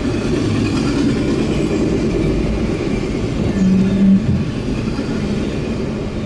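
Double-stack intermodal container train rolling past, its steel wheels running over the rails with a steady rumble, heard from inside a car. A windshield wiper sweeps once with a short motor hum about three and a half seconds in.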